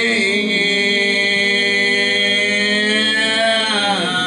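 Gospel singing: the word "living" is held as one long sung note that slides down in pitch near the end.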